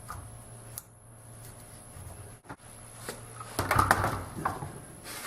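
A tool scraping flutes into a wooden dowel: a short run of scraping strokes a little past halfway, with a few faint clicks and a low steady hum.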